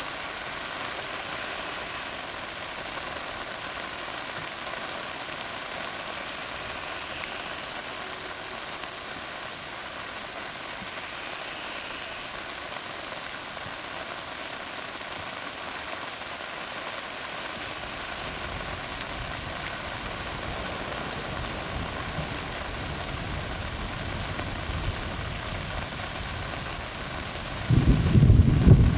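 Steady rain hissing on a tar road, with scattered single drop ticks. A low rumble of thunder builds in the last third and swells loud about a second before the end.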